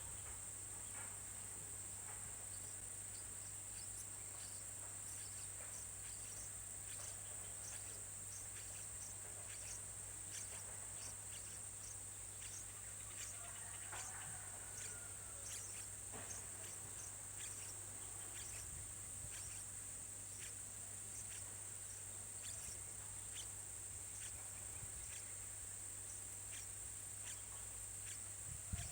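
Steady high-pitched insect drone, with faint short chirps repeating about twice a second and a few brief falling calls near the middle.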